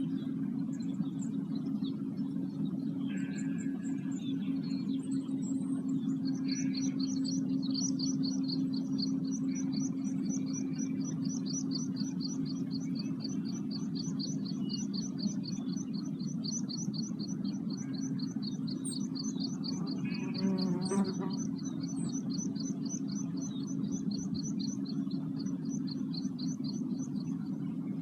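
A songbird singing a long, fast, evenly repeated song of high notes on two alternating pitches, over a steady low hum.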